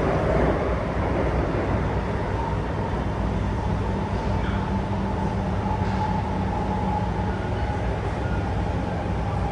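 SMRT R151 metro train running between stations, a steady rumble with a steady high whine and a lower hum from the drive.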